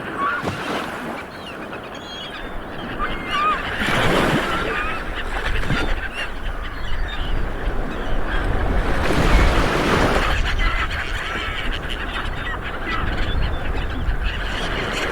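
Light surf washing onto a beach, swelling about four seconds in and again near ten seconds, with birds calling over it in many short calls.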